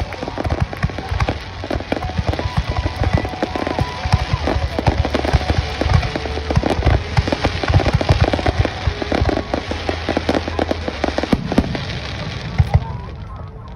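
A dense barrage of aerial firework shells bursting, with rapid overlapping bangs and crackling. The bursts stop abruptly about a second before the end.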